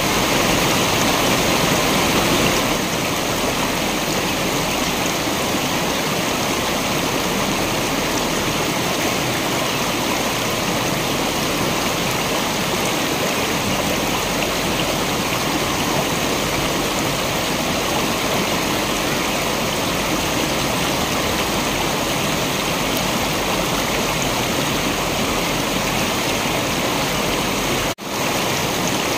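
Waterfall water rushing and splashing as a steady, full hiss. It drops out for an instant near the end.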